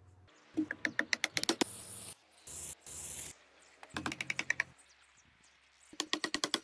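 Rapid clicking in three bursts of about ten clicks a second, with two short rasping, hissing noises between the first and second bursts.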